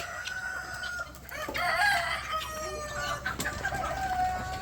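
Chickens clucking and calling in a flock, with a longer drawn-out call near the end, a rooster crowing.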